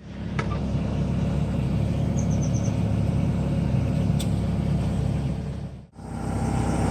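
1991 Ford F-150 engine idling steadily with a low, even rumble after a fresh oil change. The sound cuts out for a moment near the end and comes straight back.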